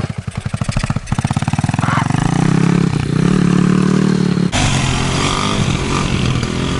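Small single-cylinder four-stroke dirt bike engine of a Kawasaki KLX110 at low revs, then revving up about a second in and holding steady as the bike pulls away in first gear. About four and a half seconds in the sound changes suddenly to a lower engine note with more rushing noise.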